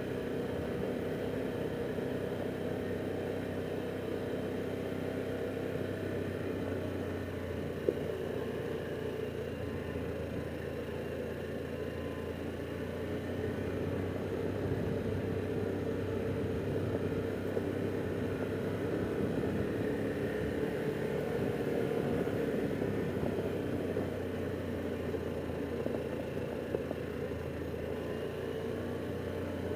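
Harley-Davidson Pan America Special's Revolution Max V-twin engine running steadily while the motorcycle is ridden, with one sharp tick about eight seconds in.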